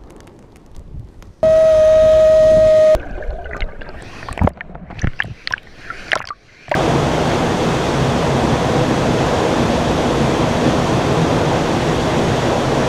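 A steady pitched tone sounds once for about a second and a half, followed by a few seconds of scattered knocks and clicks. Then, about seven seconds in, the loud, even rush of the Tsitsa waterfall begins abruptly and holds.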